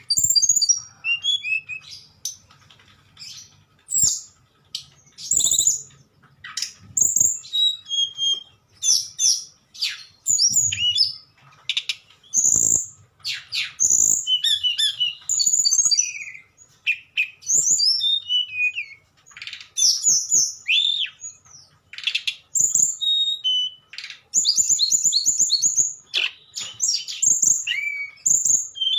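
Tledekan, a blue flycatcher, singing a fast, flute-like song of high chirps and short whistled sweeps in phrases broken by brief pauses.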